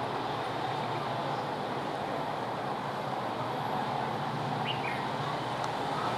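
Passenger train running past, a steady rolling rumble of wheels on the rails.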